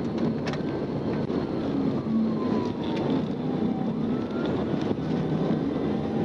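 Police patrol car running hard at pursuit speed, its engine hum steady under road and wind noise, with a siren wailing faintly in slow rising and falling sweeps.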